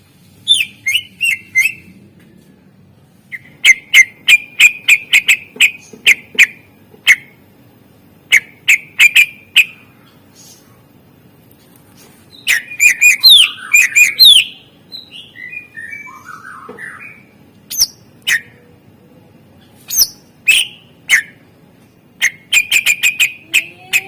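Cucak ijo (green leafbird) singing a song full of mimicked calls: bursts of sharp chirps repeated in quick series, with short pauses between phrases and a denser run of varied twittering about halfway through.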